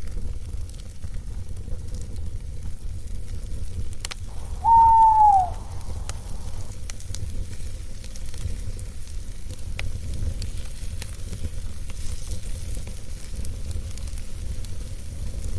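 Campfire crackling with scattered pops over a steady low rumble. About five seconds in, a single owl hoot, held level and then dropping in pitch at the end, is the loudest sound.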